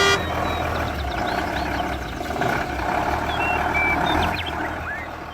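A motor running steadily with a low hum, a few short high chirps sounding over it.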